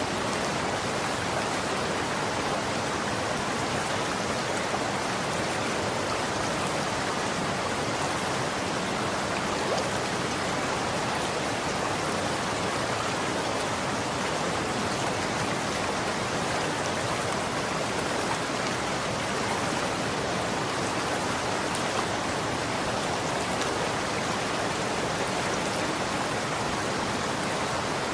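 Running water: a steady, even rush of flowing water with no change in level.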